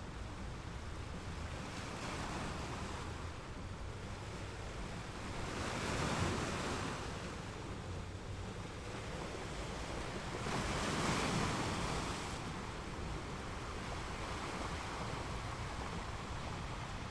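Ocean waves washing onto a shore as a steady wash, with two louder waves breaking, about six seconds in and again about eleven seconds in.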